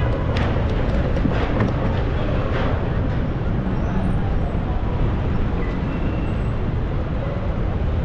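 Steady low rumble of vehicle noise, with a few brief knocks in the first few seconds.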